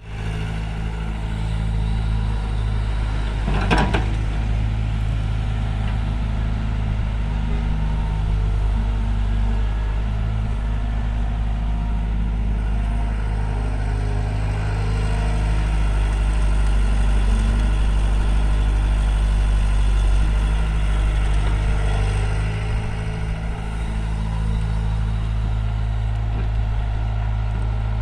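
Heavy diesel engine running steadily at a constant speed, with a sharp knock about four seconds in.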